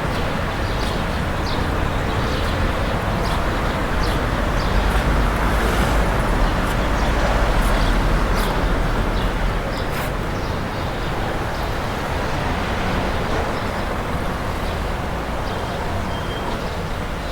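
Street ambience with traffic noise: a motor vehicle's low rumble swells and passes between about four and nine seconds in, over a steady background haze with scattered light clicks.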